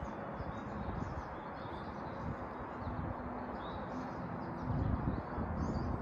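Faint, short, high chirps of small birds scattered over a steady outdoor hiss, with a low rumble that swells briefly about five seconds in.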